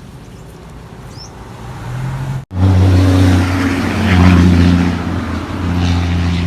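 Birds chirping faintly over a low hum, then after an abrupt cut about two and a half seconds in, a vehicle engine running loudly with a steady low drone.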